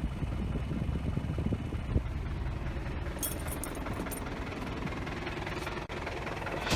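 Isuzu D-Max engine idling steadily, with a few light clicks about three seconds in. The AC is switched on but the compressor's magnetic clutch is not engaging, so the compressor stays still and gives no cooling.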